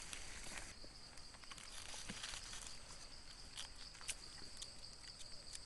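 An insect buzzing in one steady high tone that comes in under a second in, over scattered crackles and snaps of dry leaf litter underfoot.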